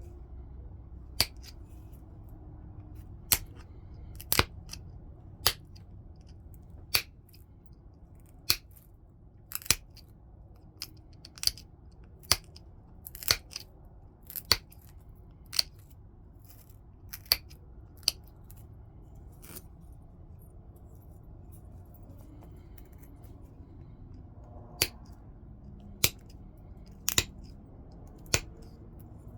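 Flintknapping: sharp clicks of flakes snapping off a stone as it is worked into a point, about one a second, with a pause of about five seconds after the middle.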